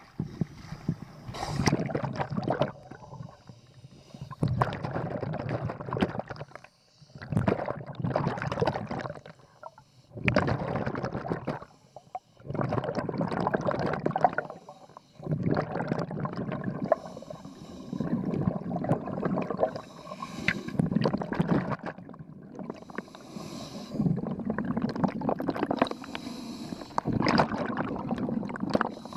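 Scuba regulator breathing: an inhaled hiss and then a gurgle of exhaled bubbles, repeating every two to three seconds with short pauses between breaths.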